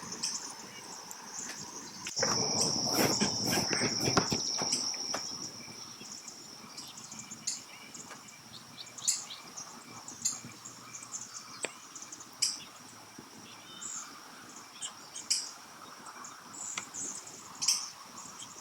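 Steady high-pitched insect trilling, cricket-like, with scattered short sharp chirps. A louder rushing noise lasts a few seconds near the start.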